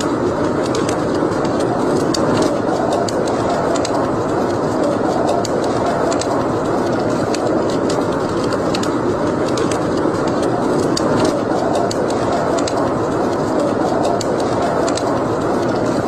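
Wood fire burning in a fireplace: a steady low rush with scattered sharp crackles and pops throughout.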